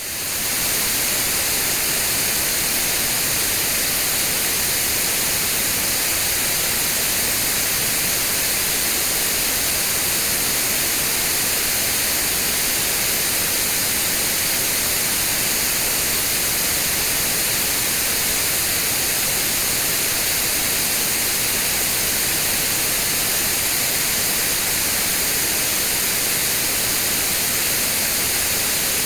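White noise test signal: a steady, even hiss that fades in over the first half second and then holds at a constant level.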